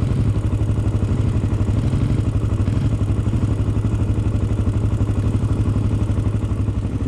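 Honda sport ATV's single-cylinder four-stroke engine idling steadily, with an even, fast low pulse.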